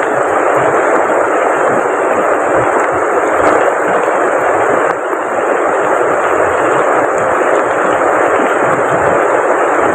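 Heavy rain and rushing river water: a loud, steady hiss with no breaks.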